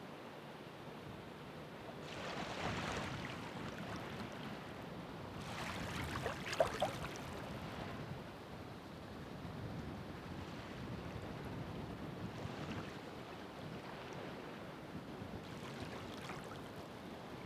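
Ocean waves breaking and washing onto the shore in repeated swells of surf noise, the loudest about six seconds in with a few brief crackles at its peak.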